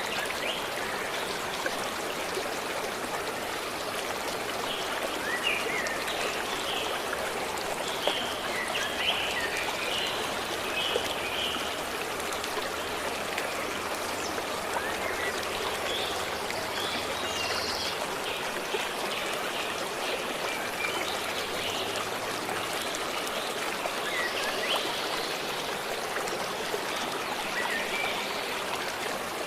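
Forest stream running steadily, with short bird chirps over it at intervals.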